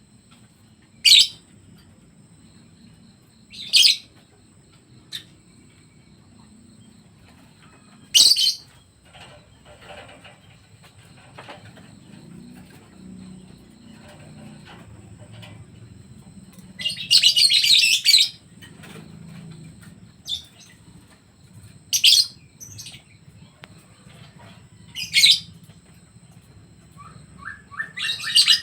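Pet songbirds giving short, sharp high-pitched chirps every few seconds, with a longer burst of calling about seventeen seconds in.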